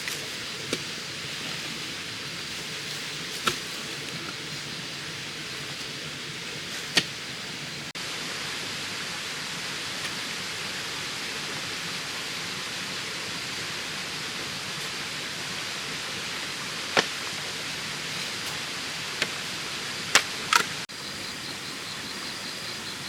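Steady hiss of outdoor background noise, with a handful of short, sharp knocks scattered through it, two of them close together near the end.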